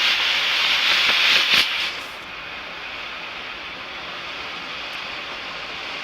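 Double-ended smoke firework tube hissing as it burns and vents smoke. The hiss is loud at first and drops to a quieter, steady hiss about two seconds in, with a couple of faint crackles before the drop.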